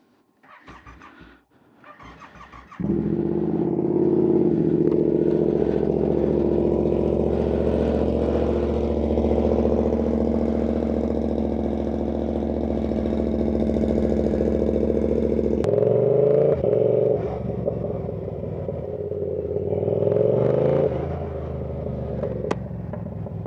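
Yamaha R7 parallel-twin engine starting about three seconds in through a loud aftermarket exhaust, then running steadily. About 16 s in it is revved, its pitch rising and falling. Heard from a mic inside the rider's helmet.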